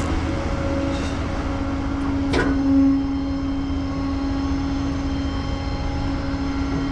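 Tow truck's engine running with a steady hum, with a single knock about two and a half seconds in.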